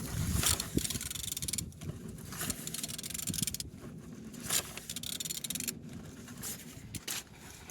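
A removed Peugeot/Citroën TU3JP 1.4-litre four-cylinder petrol engine being turned over by hand, not running: irregular clicks and scraping from the turning tool and the rotating engine, a check that the engine turns freely.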